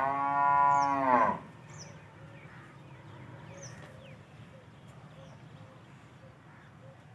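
One long moo from a head of cattle, about a second and a half long, its pitch rising and then falling. Faint bird chirps follow.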